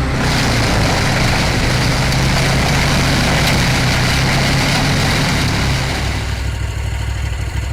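Heavy machine's engine running steadily, with a loud, dense grinding noise over it that eases off about six seconds in while the engine keeps running.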